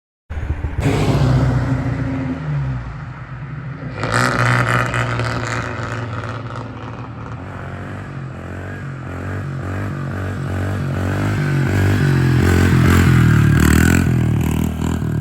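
A pit bike's small single-cylinder four-stroke engine revving up and down as it is ridden, its pitch rising and falling several times, loudest a few seconds in and again near the end.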